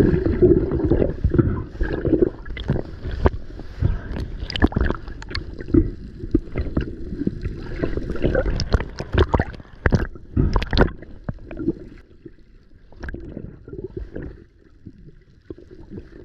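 Water gurgling and sloshing close to the microphone, with many irregular knocks and clicks. It grows much quieter about twelve seconds in.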